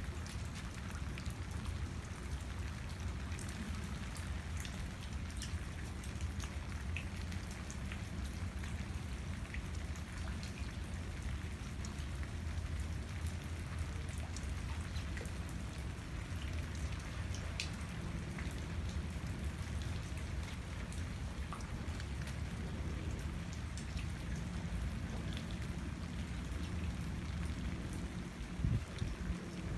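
Steady rain falling, with many individual drops ticking sharply over an even hiss and a low rumble underneath. There is one brief louder knock near the end.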